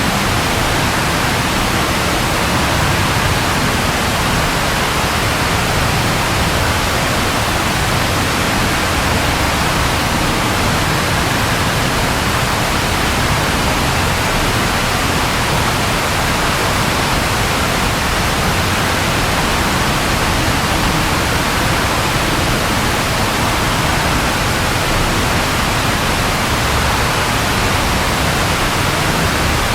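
Steady rain falling: an even, unbroken hiss with no thunderclap.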